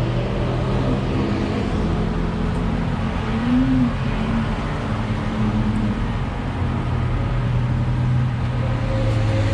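Car engines running steadily, a low continuous hum with one brief rise and fall in pitch about three and a half seconds in.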